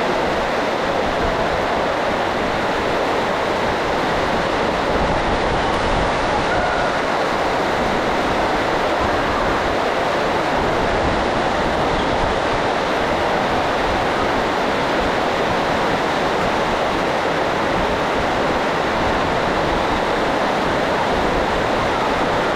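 Heavy rain, super loud: a dense, steady hiss with no letup.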